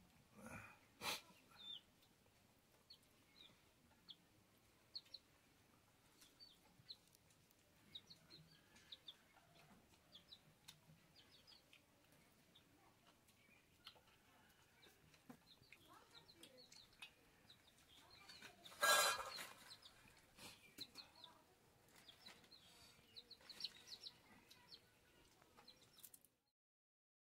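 Quiet, with faint short bird chirps scattered throughout and one louder call about two-thirds of the way through; the sound cuts off abruptly near the end.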